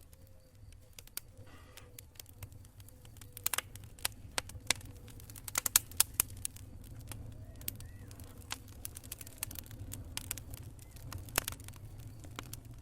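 Wood campfire crackling: irregular sharp pops and snaps, bunched about three and a half seconds in and again around six seconds, over a steady low rumble.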